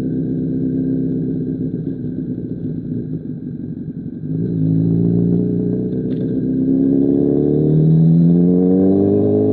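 2005 Honda CBR1000RR's inline-four through an SC Project CR-T exhaust, running low and uneven off the throttle, then opening up about four seconds in with the pitch climbing. The pitch drops back once, like a gear change, and climbs again near the end.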